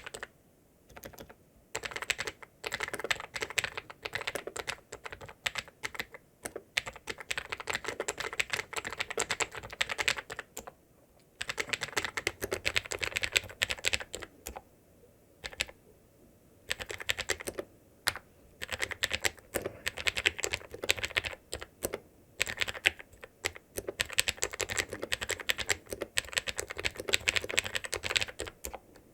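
Typing on a ZIYOULANG K68 mechanical keyboard: runs of fast keystrokes broken by a few short pauses.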